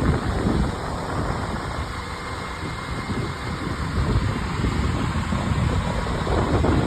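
Heavy diesel equipment running steadily, a low engine rumble, with wind buffeting the microphone.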